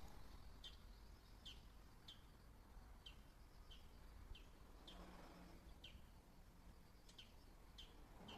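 A bird calling faintly and repeatedly: short, high chirps, each sliding down in pitch, somewhat more than one a second, over a low steady rumble.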